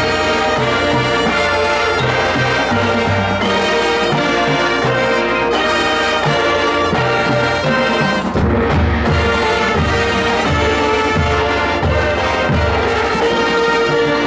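High school marching band playing, with the brass holding chords over repeated low drum hits.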